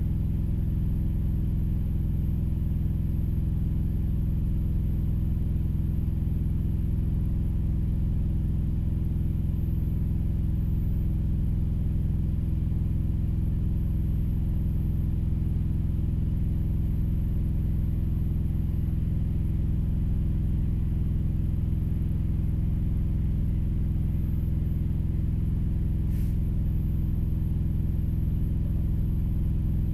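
Steady low drone of an idling engine, unchanging throughout, heard from inside a vehicle's cab, with one faint click late on.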